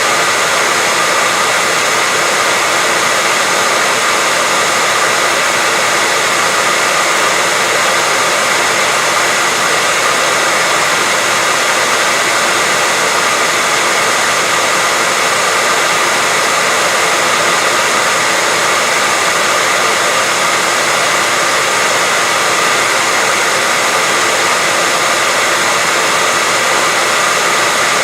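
Steady white noise: an even, unchanging hiss with a faint high steady tone running through it.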